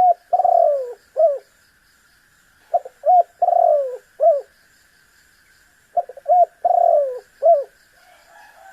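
Spotted dove (tekukur) calling its cooing phrase three times, about every three seconds: each phrase is a couple of short coos, a longer falling coo, and a short closing note.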